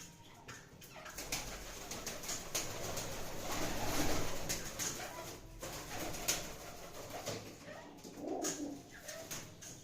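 Domestic Teddy pigeons cooing, with clicks and scuffling among them; the clearest coo comes about eight seconds in.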